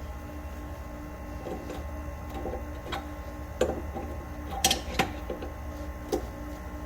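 Scattered sharp metallic clicks and taps from hand tools working on a seized rear shock bolt, over a faint steady hum.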